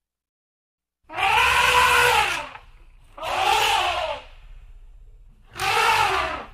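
African elephant trumpeting three times, each call a second or so long and rising then falling in pitch, with short pauses between.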